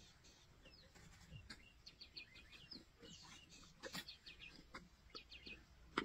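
Faint chirping of small birds, many short calls, with a few short sharp cracks from lions chewing on a zebra carcass, the loudest about four seconds in.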